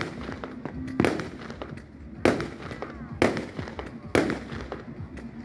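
Aerial fireworks exploding in a string of loud, sharp bangs about once a second, each trailing off in an echo, with smaller pops and crackles between them.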